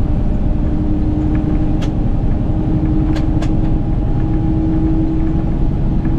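Semi truck cruising on the highway, heard from inside the cab: a steady engine and road drone with a constant hum, and three faint clicks about two and three seconds in.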